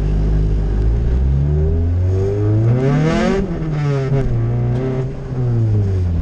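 Honda CRX engine, heard from inside the cabin, revving up steadily for about three seconds, then dropping off sharply, with a smaller rise and fall near the end. The car's transmission is failing, with what the owner takes for a shot input bearing.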